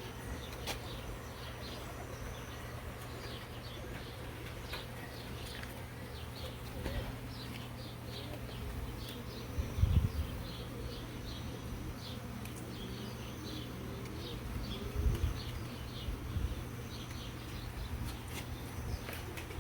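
Honeybees buzzing around an open hive as its frames are inspected, a steady hum. Short high chirps run through it, and there are two louder low rumbles about ten and fifteen seconds in.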